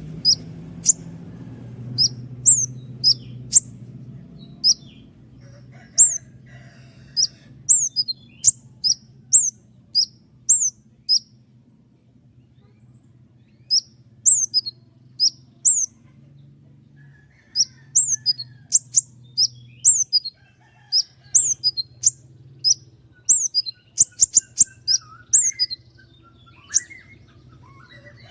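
Brown-throated sunbird (konin) singing: runs of sharp, very high chirps, each sweeping quickly downward, delivered in quick succession. There is a lull of a few seconds near the middle, and the runs come faster and denser toward the end.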